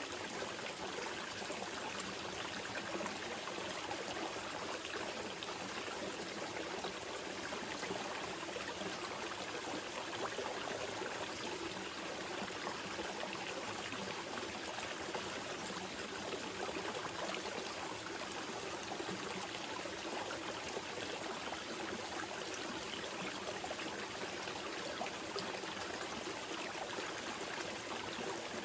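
Small mountain river flowing gently, a steady, even rush and trickle of water.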